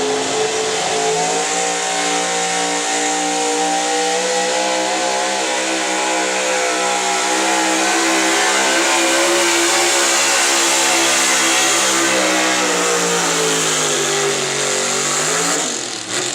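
Gas engine of an altered stock 4x4 pulling truck running at high revs under load while pulling the sled. The pitch climbs over the first couple of seconds, holds high for most of the run, then drops near the end as the revs come down.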